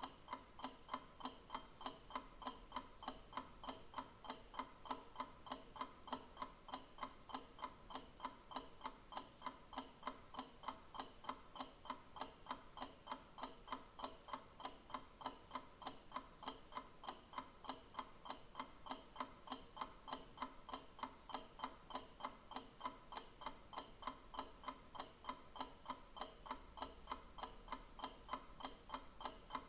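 Clock ticking steadily, with even, quick ticks several times a second.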